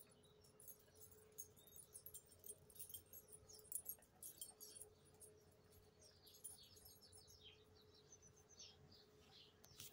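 Faint chirping of small birds: many short, high calls scattered throughout, over a faint steady hum.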